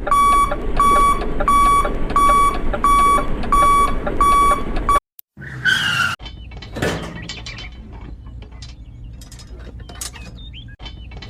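Electronic beeper sounding a steady, evenly spaced beep, about seven beeps over five seconds, above a low rumble; it cuts off suddenly, followed by quieter scattered clicks and brief knocks.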